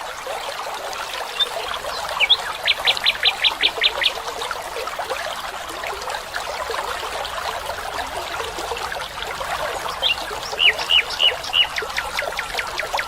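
Steady trickle of a small stream, with a bird calling over it in quick runs of short, high notes: one run about two seconds in, another from about ten seconds in that goes on to the end, some of its notes dropping in pitch.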